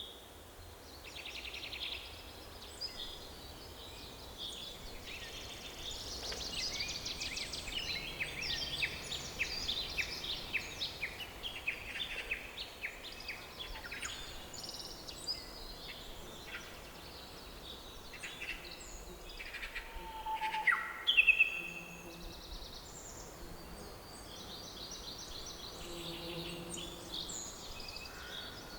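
Several songbirds singing and calling together, with fast trills and short chirps over a faint steady background hiss. The loudest call, a quick note sliding downward, comes about two-thirds of the way through.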